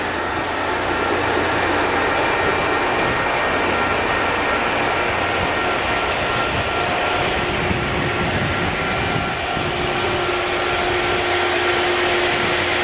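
Loram rail grinding train at work: a loud, steady grinding rush from its rotating grinding stones against the rails, mixed with the machine's engine noise and a few faint steady whines. Low rumbling gusts of wind buffet the microphone.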